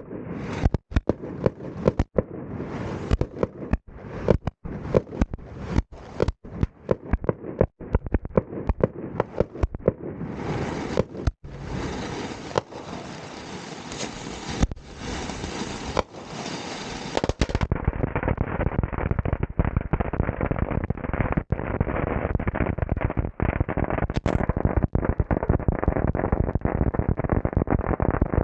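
Consumer fireworks going off: a string of sharp, separate bangs, then about ten seconds in a dense crackling barrage, followed by a closely packed, duller stream of pops.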